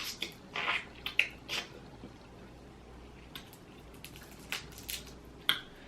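Boiled crawfish in seasoning sauce being handled and peeled by hand: scattered wet cracks, clicks and squishes, busiest in the first two seconds and sparser after.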